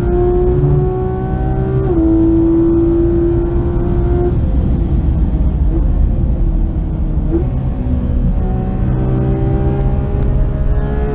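2016 Porsche 911 GT3 RS's naturally aspirated flat-six at full throttle, heard from inside the cabin with road rumble underneath. It upshifts about two seconds in, the note fades as the driver lifts off around four seconds in, there are short blips of throttle, then it climbs in pitch again under acceleration.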